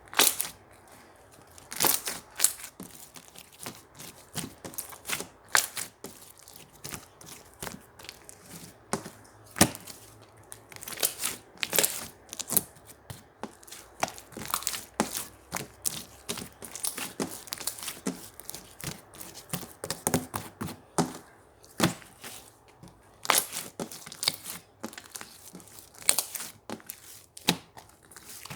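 Yellow marbled slime being worked by hand: a dense, irregular run of crisp pops, clicks and crackles as it is pressed, stretched and folded.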